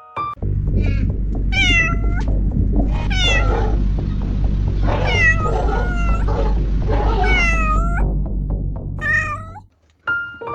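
A small animal mewing: about seven high cries, each falling in pitch, over a steady low drone that stops shortly before the end.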